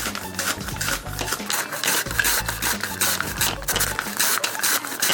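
Vidalia onions being sliced paper thin on a mandoline: a rhythmic run of rasping strokes, about two to three a second, as the onion is pushed back and forth across the blade.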